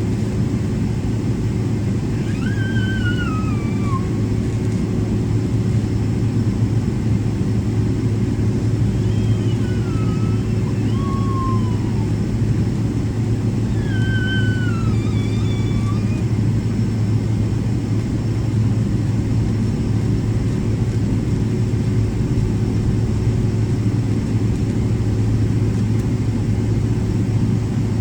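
Steady cabin rumble and hum of a Boeing 777-300ER taxiing, heard from inside the passenger cabin. A few short squealing tones slide downward in pitch, about four times.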